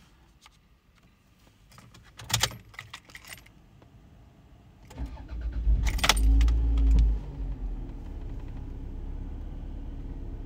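Keys jangling and clicking at the ignition of a Toyota RAV4 2.0 VVT-i petrol four-cylinder. About five seconds in, the engine cranks and starts, flaring briefly before it settles to a steady idle.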